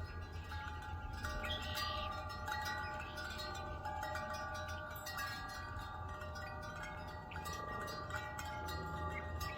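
Wind chimes ringing in a breeze, several tones overlapping and struck again every second or so, over a low rumble of wind.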